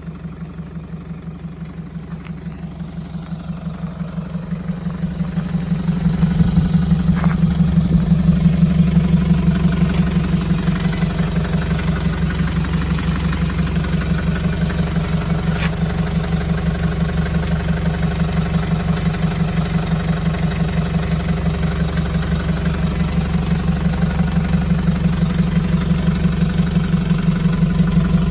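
Toyota Land Cruiser Prado's 3.0-litre 1KD-FTV four-cylinder turbodiesel idling through a re-routed side-exit exhaust with an aftermarket clamp-on silencer. The idle is a steady, even pulsing that grows louder about five seconds in.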